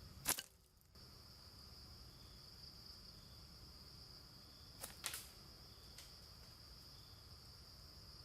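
Steady high-pitched drone of insects such as crickets in forest, with a sharp loud click just after the start and a quick pair of clicks about five seconds in.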